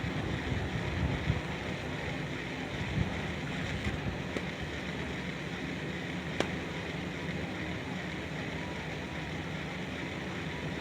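Steady outdoor ambient noise: a low, uneven rumble of wind on the microphone under an even hiss, with a few faint sharp clicks.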